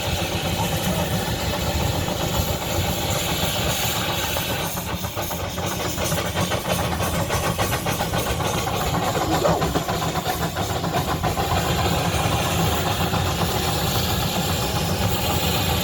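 Vintage engine running steadily with an even, rhythmic beat that shows most plainly through the middle of the stretch.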